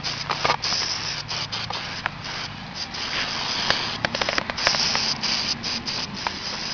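Aerosol can of flying insect killer spraying in repeated bursts, a hiss that keeps breaking off and starting again, with short clicks and rustling between bursts.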